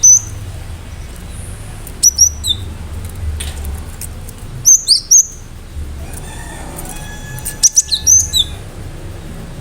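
Cinereous tit (gelatik batu) singing in groups of two to four sharp, high notes that each drop in pitch, a group every two to three seconds. A low steady hum runs underneath.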